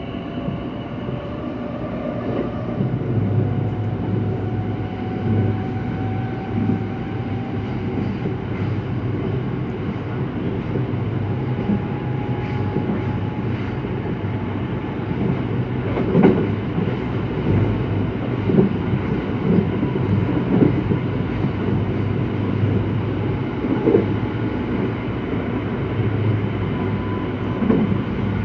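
Running noise inside a JR West local electric train: a steady rumble of wheels on the rails, with a motor whine rising slowly in pitch over the first several seconds. Several sharp wheel clacks over rail joints come in the second half.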